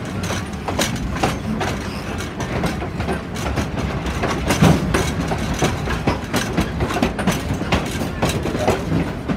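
Passenger train car rolling along the track, its wheels clicking over rail joints amid a steady rumble and irregular clanks and rattles.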